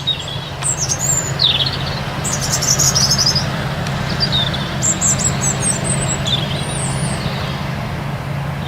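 Steady drone of distant forage-harvesting machinery, the forage harvester and the tractor pulling its trailer, with small birds chirping over it in short high calls.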